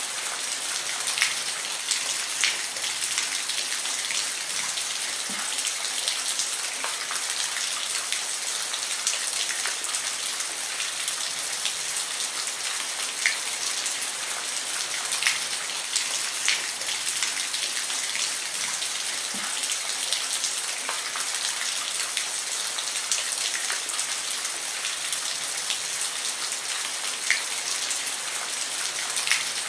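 Steady rain falling on a roof: an even hiss, with single louder drops tapping now and then.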